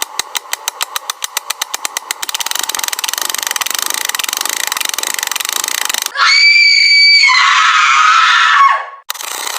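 Added sci-fi sound effects: a fast clicking that speeds up into a buzzing drone, then about six seconds in a loud electronic tone that slides down in pitch and stops abruptly.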